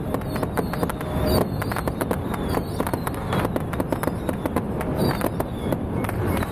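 Fireworks crackling: a dense, irregular run of sharp pops, many a second, with no break.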